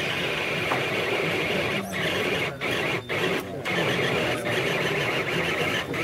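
Radio-controlled truck's motor and drivetrain whining under load as it pulls a weighted sled, with the whine cutting out briefly about five times as the throttle is let off and reapplied.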